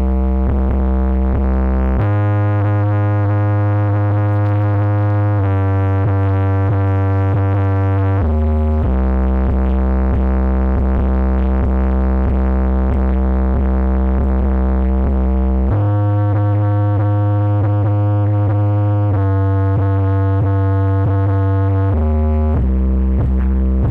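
Electronic music with long, held synthesizer bass notes that change pitch every few seconds, played loud through a sound system's subwoofers during a bass check.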